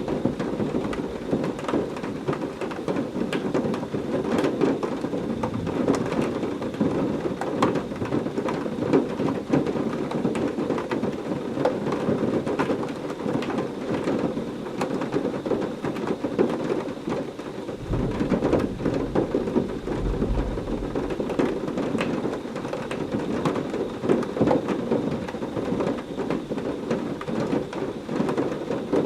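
Heavy rain falling steadily, with many sharp individual drop impacts, and a low roll of thunder about two-thirds of the way through.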